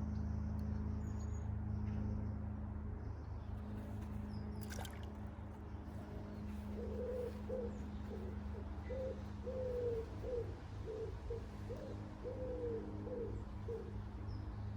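A pigeon cooing in a rhythmic series of low, soft calls over a steady low hum, with a single sharp click shortly before the cooing starts.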